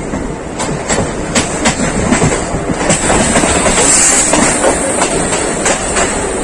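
MEMU electric passenger train running, heard from on board: steady rumble with the wheels clattering in irregular clicks over rail joints. A brief hiss swells about four seconds in.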